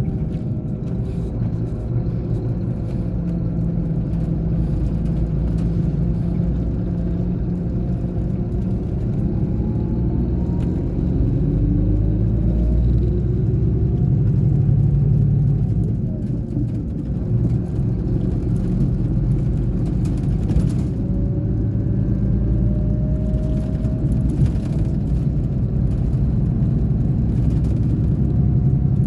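Scania K420 bus engine running under way, a steady low drone whose pitch climbs twice as it pulls, with a brief easing off around the middle.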